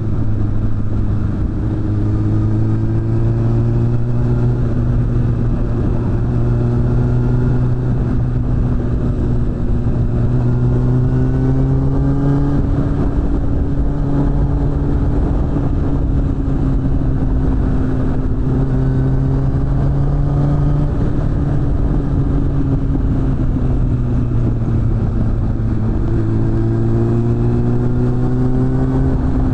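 Suzuki GSF600 Bandit's inline-four engine through a BOS aftermarket exhaust, pulling steadily under way. Its pitch climbs and eases off several times as the throttle is opened and rolled back.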